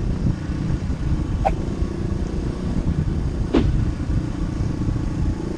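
Steady low rumble of a motor vehicle on the road, with two brief higher-pitched sounds, one about a second and a half in and one a little past halfway.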